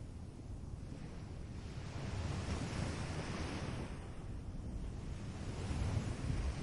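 Ocean surf washing onto a beach in slow surges: one swell peaks about three seconds in and another builds near the end, over a steady low rumble.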